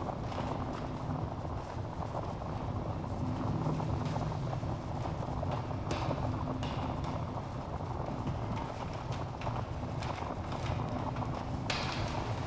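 Wood fire burning in a fireplace: a steady low rumble of flames with scattered sharp crackles and pops from the logs, one of the louder pops near the end.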